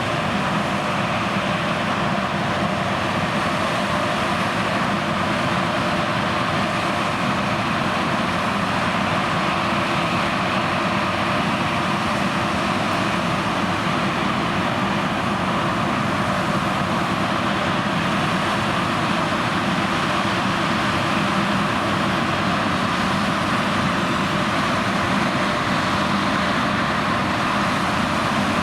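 John Deere X9 1100 combine harvester running steadily under load while harvesting oilseed rape, a constant machine hum and rush with no change in pace.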